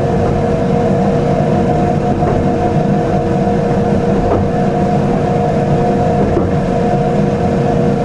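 Electric train running along the track, heard from the driver's cab: a steady rumble with a constant hum, and a few faint ticks.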